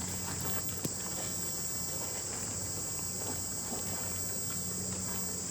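Steady chorus of crickets, a constant high-pitched buzz, with one faint click about a second in.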